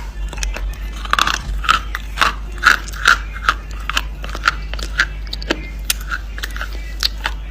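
Someone biting and chewing hard, dry chalky chunks close to the microphone: a run of sharp, crisp crunches about two or three a second, over a steady low electrical hum.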